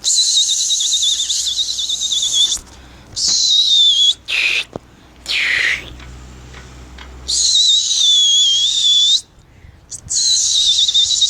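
A pigeon keeper's loud, shrill whistling to drive his flock up and keep it flying: three long warbling blasts of about two seconds each, with shorter whistles between them that fall in pitch.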